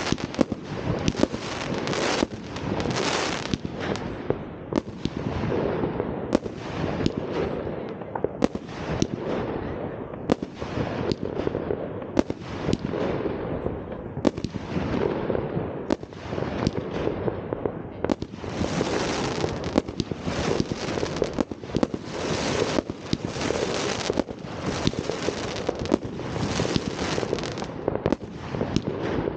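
New Year's Eve fireworks going off without pause. Sharp bangs and crackling burst about once a second, each trailing off in a fading hiss.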